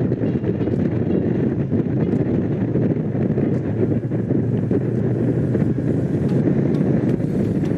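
Honda CX500's liquid-cooled V-twin running at a steady cruise under way, with wind noise on the microphone.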